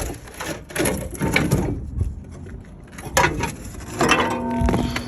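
Irregular clanks and scrapes of hand tools and metal battery hardware while a truck battery is being unbolted and removed, with a short metallic ring near the end.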